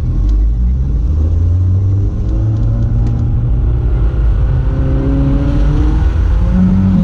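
Toyota MR2 Turbo's turbocharged four-cylinder engine running under a low rumble as the car pulls away, its note rising in pitch twice as it accelerates, heard inside the open-roofed cabin.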